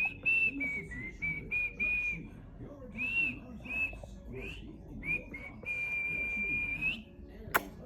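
Clear whistled notes at a high pitch: a run of short notes, some gliding up or down, then one long held note that rises at its end. A sharp click comes near the end.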